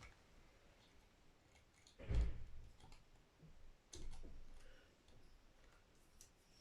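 Small clicks and knocks from handling guitar wiring parts and tools on a workbench, with two louder knocks about two and four seconds in.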